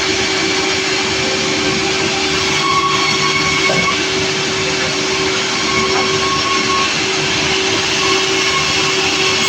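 Sawmill machinery running steadily: a loud, even mechanical noise with a constant hum.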